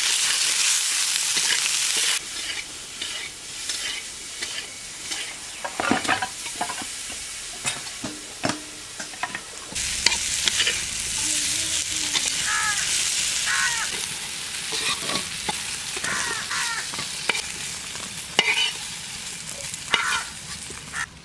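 Eggplant wedges sizzling in hot oil in a metal wok, stirred with a flat metal spatula that scrapes and knocks against the pan. The sizzle is loudest for the first couple of seconds and again from about ten to fourteen seconds in.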